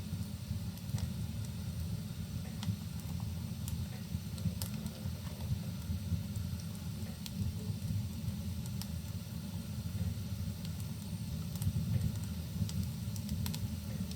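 Wood fire burning in a fireplace: a steady low roar of the flames with sparse sharp crackles and pops from the burning logs.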